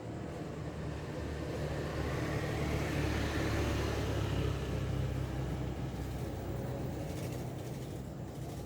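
A motor vehicle going past: a low rumble with a rushing noise that swells to a peak about halfway through and then fades away.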